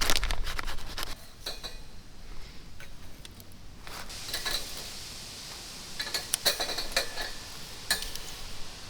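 Metal cookware and utensils clinking and scraping during camp cooking: a burst of clatter in the first second, then scattered light clinks with short metallic ringing.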